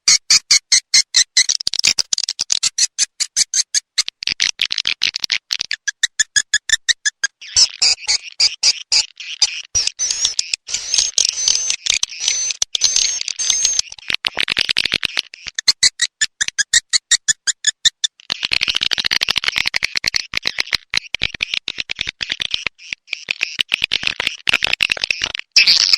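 Recorded edible-nest swiftlet calls played as a lure sound for swiftlet houses: dense, fast trains of high-pitched chirps and clicks repeating almost without pause, with brief lulls about seven and eighteen seconds in.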